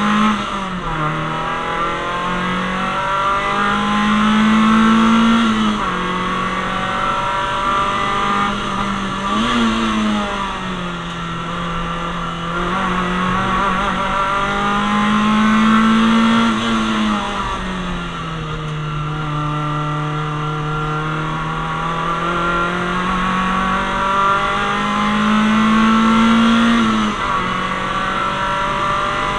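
Citroen Saxo VTS's 1.6-litre 16-valve four-cylinder petrol engine under hard track driving, heard from inside the stripped, caged cabin. The revs climb steadily and fall away repeatedly, with sudden drops in pitch about 6, 17 and 27 seconds in.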